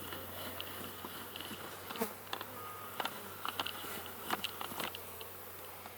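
Honeybees buzzing steadily around an opened hive, with a few scattered light clicks and knocks.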